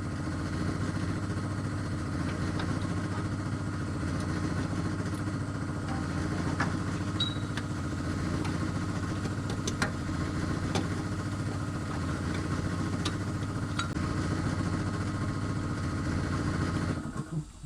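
Mitsubishi Pajero's 6G74 3.5-litre V6 idling steadily, with light ticking, then switched off about a second before the end.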